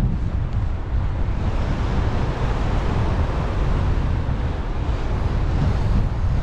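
Steady wind noise from airflow buffeting the microphone, a dense rushing sound heaviest in the low end.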